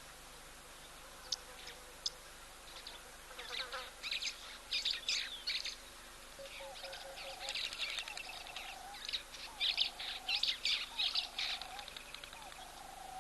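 Wild birds calling: bursts of high, rapid chirping and chattering, joined from about halfway through by a lower call repeated roughly once a second.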